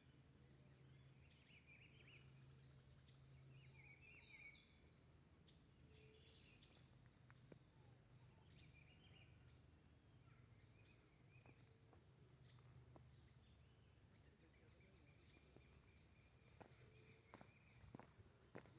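Faint birdsong, short chirping phrases mostly in the first half, over a steady high insect buzz with a fast regular pulse. A few sharp taps come near the end.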